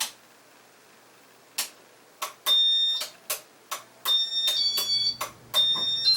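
Casablanca W31 wall control putting the ceiling fan and light kit into demo mode. A few sharp button clicks come first. About two and a half seconds in, short electronic beeps begin and step between pitches, mixed with more clicks.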